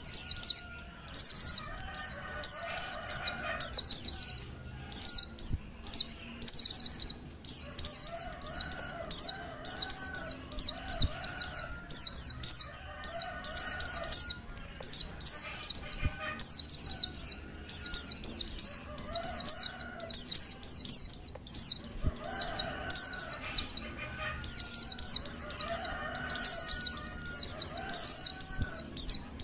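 Female pleci (white-eye) calling: rapid trains of high, thin, downslurred notes in phrases about a second long, repeated with short gaps, with fainter lower calls underneath. This is the female call used to stimulate male white-eyes into singing.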